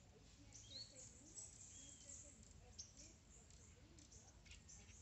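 Near silence with a few faint, short bird chirps over a low background hum.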